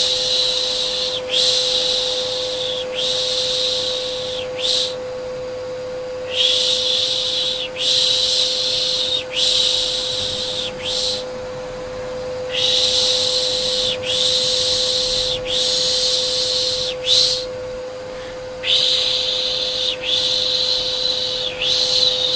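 Rhythmic soothing shushing, 'shh' sounds in groups of three long and one short with a pause of about a second and a half between groups, over a steady electric vacuum cleaner hum.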